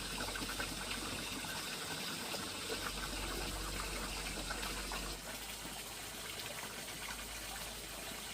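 Water running and splashing steadily, slightly quieter from about five seconds in.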